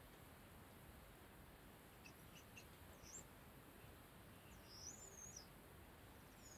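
Faint, high-pitched bird chirps about two seconds in, then a longer whistle that rises and falls near the middle and a short one at the end, over a quiet steady hiss.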